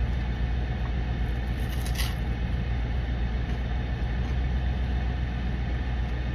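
Car engine idling, a steady low rumble heard from inside the cabin, with a short crackle about two seconds in.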